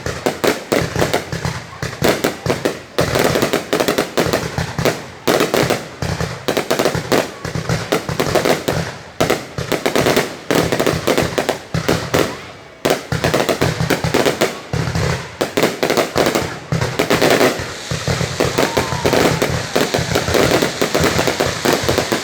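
Fireworks going off in rapid, continuous bangs and crackles, many per second, with a brief lull about halfway through.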